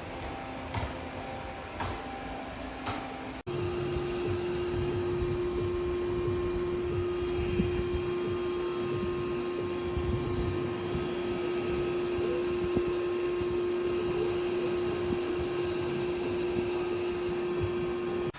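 A few light clicks, then about three seconds in a robot vacuum's motor starts abruptly and runs steadily with a constant whirring hum.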